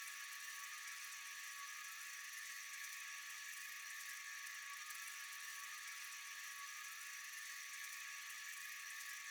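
Steady, continuous night insect chorus: a high, even hiss with a few held tones and no pauses or pulses.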